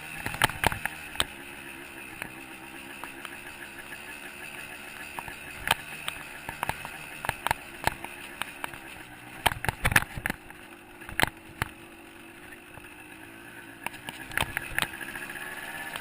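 A 125cc two-stroke dirt bike engine running at a steady, moderate throttle, its pitch dipping and rising a little, rising again near the end. Many sharp knocks and rattles come through, in clusters at the start, around ten seconds in and near the end.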